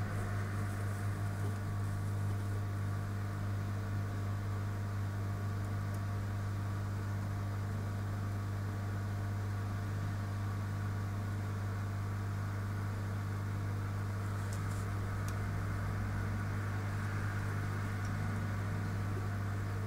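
Steady electrical hum with a constant whir from running repair-bench equipment.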